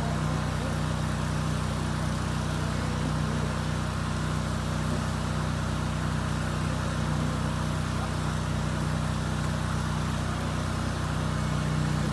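An engine running steadily at a constant speed, an even hum with no change in pitch or loudness.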